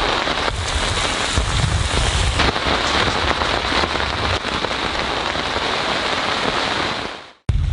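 Steady rain falling on a surface. It fades out about seven seconds in, and a low wind rumble starts just before the end.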